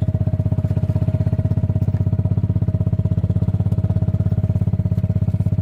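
Farm vehicle's engine running steadily, with a fast, even pulsing beat and a low hum.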